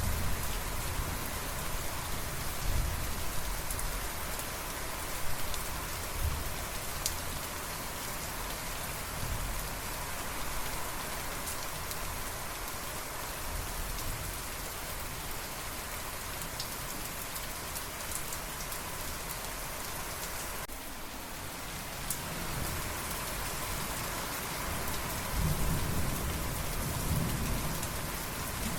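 Steady rain falling, with low rolls of thunder rumbling at intervals. The loudest roll builds near the end.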